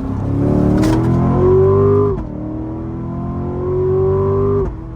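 Chevrolet Corvette Grand Sport's V8 accelerating hard: the engine note climbs steadily, drops sharply at an upshift about two seconds in, then climbs again and falls off near the end.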